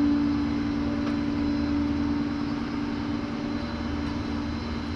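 Steady drone of a running vehicle, with a low hum that fades about two and a half seconds in.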